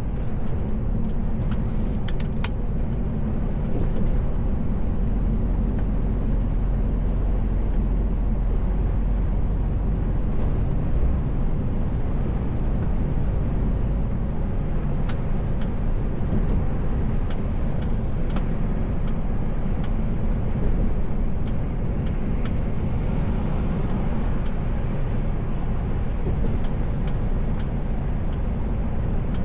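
Steady drone of a Mercedes Actros L truck heard from inside the cab while driving: a low engine rumble with road and tyre noise, and a few faint clicks.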